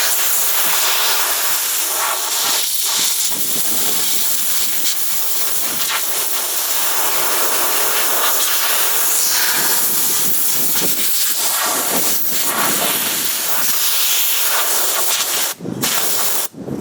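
Compressed-air blow gun hissing steadily as it blows rinse water off a freshly rinsed steel fender, cutting off abruptly near the end.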